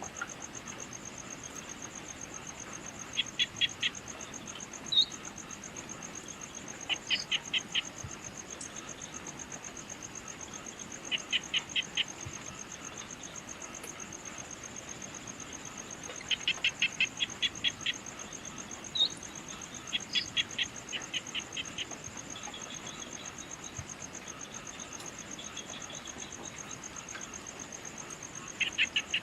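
Outdoor evening insect chorus: a steady high, finely pulsing trill throughout. Every few seconds comes a burst of rapid chirps, about four to eight in a row, with a few single short higher notes between them.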